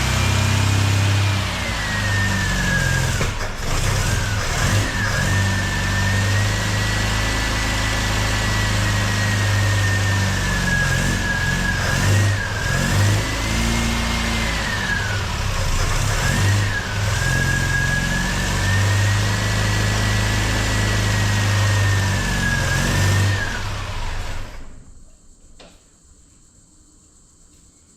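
Supercharged MGB 1.8-litre B-series four-cylinder engine running on its first start after a rebuild. The revs rise and fall, a high whine follows them up and down, and the engine stops about three-quarters of the way through. The owner feels the tune still needs adjusting to make it sound better.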